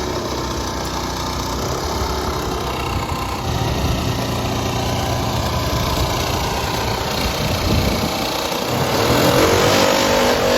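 Car engine running steadily and driving its wheels, with a transmission that has a hole blown in it and is losing fluid. A pitched whine rises near the end.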